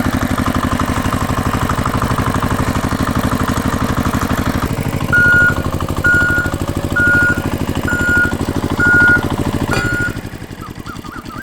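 Tractor engine running steadily with a rapid, even chug. In the middle come six short, high beeps, about one a second, and the engine drops to a quieter run near the end.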